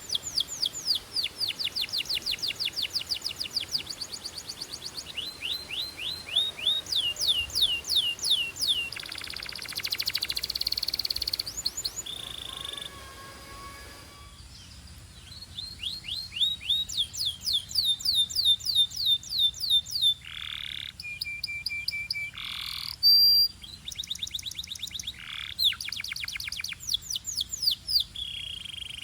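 Canary singing: fast trills of rapidly repeated falling notes, a harsh buzzing passage around ten seconds in, a brief lull, then more trills with a few long whistled notes near the end.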